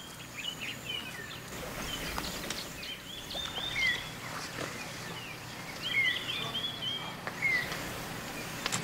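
Wild birds calling: clusters of quick high chirps repeated every couple of seconds, with a few clear downward-slurred whistles, over a faint steady background of outdoor noise.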